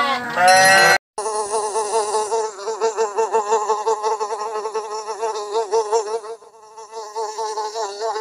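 A sheep's bleat ends about a second in; after a brief gap an insect buzzes steadily for the rest of the clip, its pitch wavering slightly, a little quieter over the last couple of seconds.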